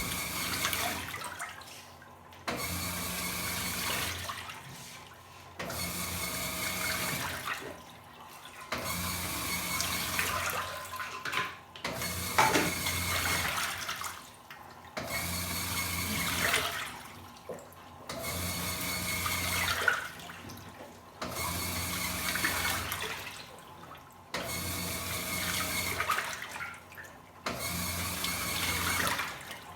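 Washing machine agitating a full tub of water: the motor hums and the water sloshes in strokes of about three seconds, each followed by a short pause as the wash reverses direction.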